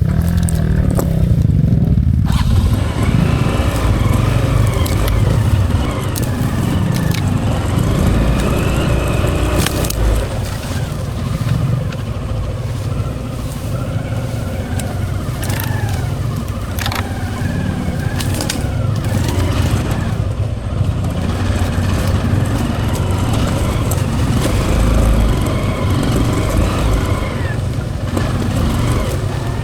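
Hero Impulse single-cylinder dual-sport motorcycle engine working under load on an off-road hill climb, its revs rising and falling with the throttle, with scattered sharp knocks and rattles from the bike over rough ground.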